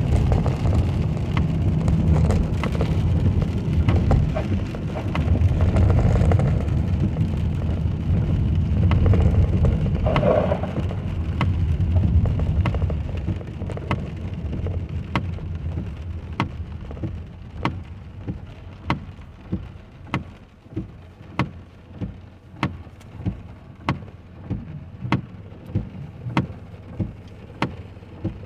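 Car cabin in the rain: low road and engine rumble while driving, easing off about halfway through as the car slows. Then a turn signal ticks steadily, a bit more than once a second, over the rain.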